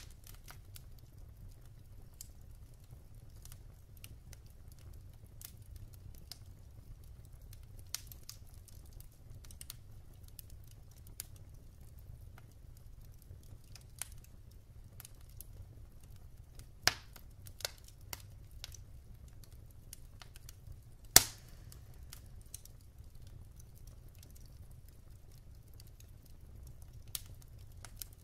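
Wood fire burning in a fireplace, with irregular crackles and pops of the burning logs over a low steady rumble of the flames. A cluster of sharper pops comes a little past halfway, and one loud pop follows a few seconds later.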